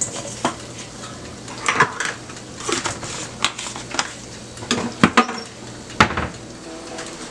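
A metal utensil clinking and knocking against a cooking pot, about a dozen sharp strikes at uneven intervals, some with a short ring. Background music comes in near the end.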